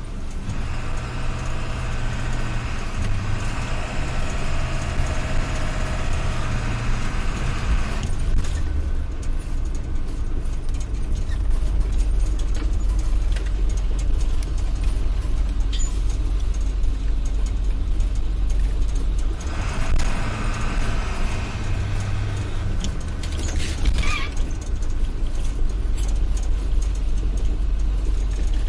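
Vehicle engine running with a steady low rumble, joined twice by a higher whine, once at the start for several seconds and again for a few seconds past the middle.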